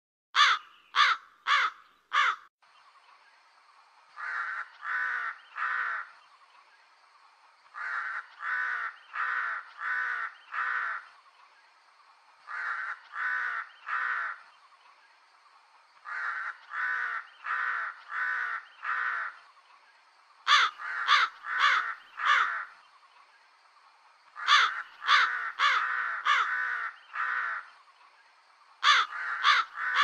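Crow cawing in runs of three to six harsh caws with short pauses between the runs. Some runs are loud and close and others fainter, over a faint steady high-pitched tone.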